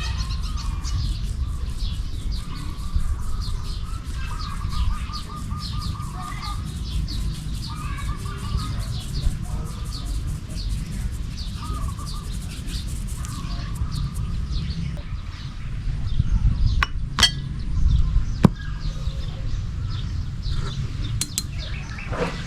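Small birds chirping over a steady low rumble, with a few sharp clicks about three-quarters of the way through.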